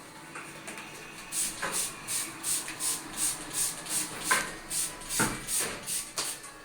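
Hand spray bottle misting water onto a cockatiel, with short hissing squirts repeating about three times a second, and a few sharper knocks among them.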